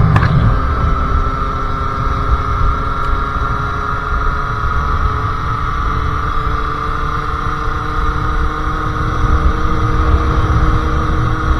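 Sherco SM-R 50cc two-stroke engine with a KRM exhaust running at fairly steady revs while riding, its pitch sagging slightly and then holding.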